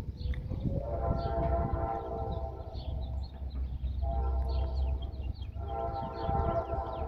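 Diesel locomotive air horn sounding a chord in three long blasts, over the steady low rumble of the train. Birds chirp faintly in the background.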